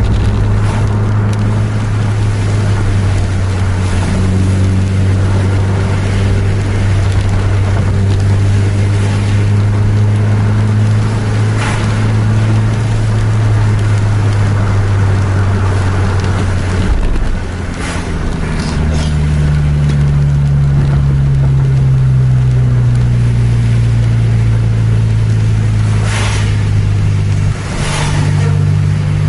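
Engine drone and tyre noise heard from inside a vehicle driving fast on a wet road. The drone is steady, then about two-thirds of the way through it briefly dips and shifts pitch, sinking slowly as the vehicle slows down.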